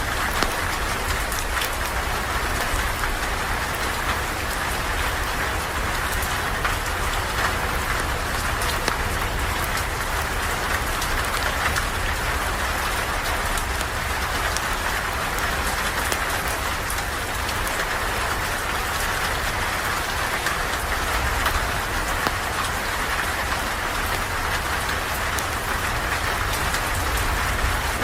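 Steady rain: an even hiss dotted with many small drop ticks, over a steady low rumble.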